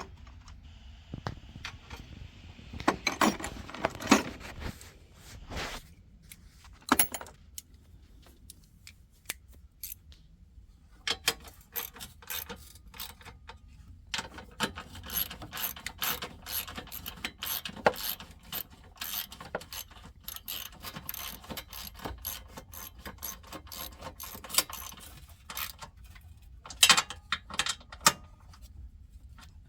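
Ratchet wrench clicking in quick runs as 12 mm bolts are tightened, with a few louder knocks of the tool against metal.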